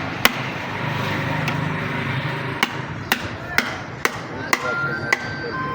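Hammer blows in a series of sharp knocks: one just after the start, then a run of strikes about every half second through the second half.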